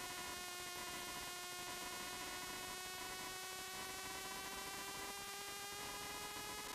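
Faint car engine at steady high revs, heard from inside the car: one constant note with many overtones, its pitch creeping slowly upward.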